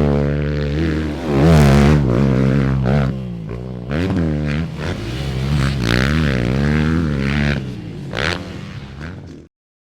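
Motocross dirt bike engine revving up and down over and over as it is ridden, with the pitch climbing and dropping every second or so. The sound cuts off abruptly just before the end.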